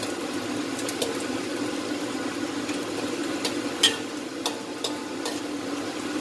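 Tempeh and chicken gizzards sizzling in hot oil in a wok. A metal spatula clicks and scrapes against the wok half a dozen times as the pieces are turned, with the sharpest clink a little before halfway.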